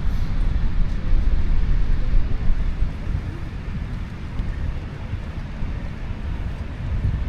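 Wind buffeting the microphone on a moving e-bike, a steady, uneven low rumble.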